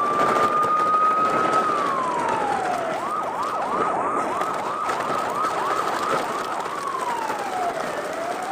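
Electronic emergency-vehicle siren: a slow rising and falling wail, switching about three seconds in to a fast yelp of about three sweeps a second, then back to the slow wail near the end.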